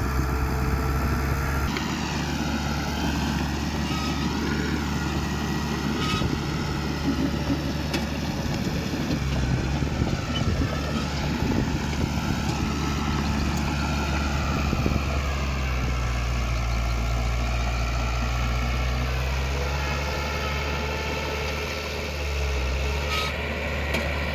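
Heavy diesel engine of earthmoving machinery running steadily, with its pitch rising and falling, and a few short clanks near the end.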